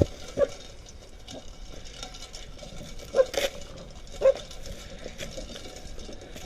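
A dog making a few short vocal sounds: one about half a second in, two just after three seconds and one after four seconds.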